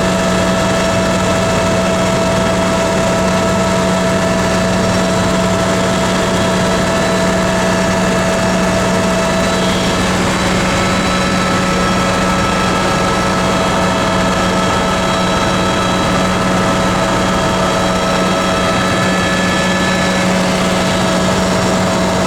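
Helicopter's engine and rotor heard from inside the cabin: a loud, steady drone with a few steady whining tones above it, which shift slightly in pitch about halfway through.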